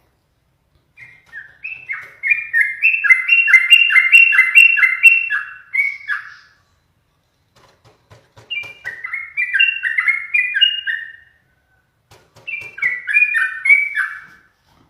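Yellow-vented bulbul singing in three loud bouts of quick, bubbly, stepped notes, the first and longest lasting about five seconds.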